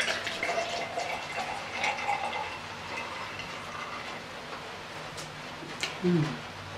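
Wet chewing and lip-smacking on a saucy barbecued rib close to the microphone, with a few small clicks, over a steady hiss of rain from a thunderstorm. A short falling hummed 'mm' about six seconds in.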